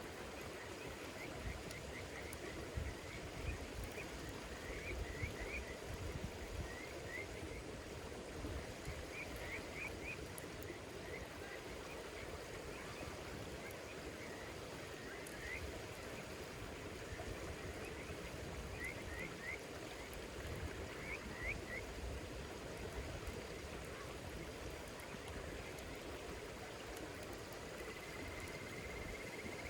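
Night insects chirping in quick runs of two to four short high chirps, a run every second or two, over a low, uneven rumble. Near the end a thin steady whine comes in, slowly rising in pitch.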